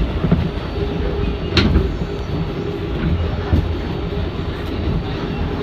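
New York City Subway R188 car running between stations, heard from inside: a steady rumble of wheels on rail, with one sharp click about one and a half seconds in and a few smaller knocks.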